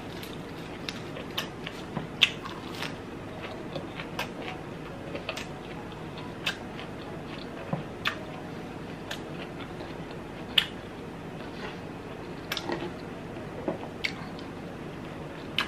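A person chewing and eating close to the microphone: irregular wet mouth clicks and smacks, a few of them louder, over a steady low background hiss.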